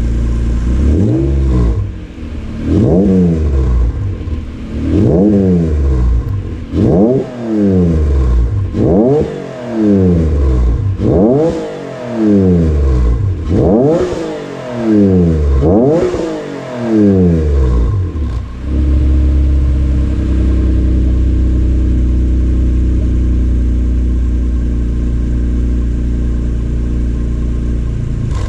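Acura NSX's V6 revved through a newly fitted aftermarket exhaust, warm from an earlier run: about eight quick blips, each rising and falling, roughly every two seconds, then settling into a steady idle for the last ten seconds or so.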